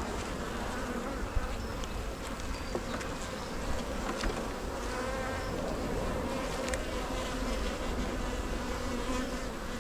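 Honey bees buzzing steadily around an open hive, their wingbeat hum holding a low drone with a few light clicks and knocks over it.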